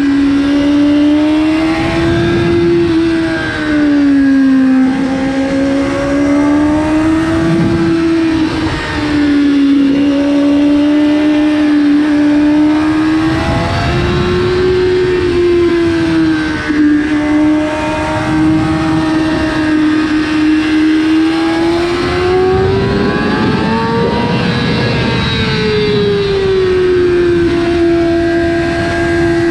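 Kawasaki ZX-6R's 599 cc inline-four engine running at high revs under way, its pitch rising and falling with the throttle and climbing highest about 24 seconds in.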